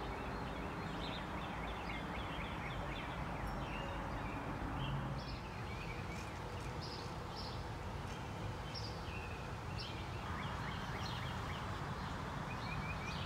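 Outdoor ambience: small birds chirping and twittering off and on over a steady low background noise.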